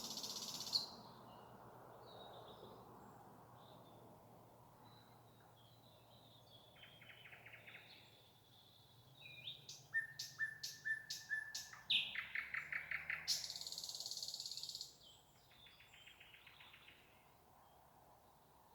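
Nightingale song in separate phrases with pauses between them: a quick high trill right at the start, a run of sharp clicking notes about halfway through, then a long fast rattle.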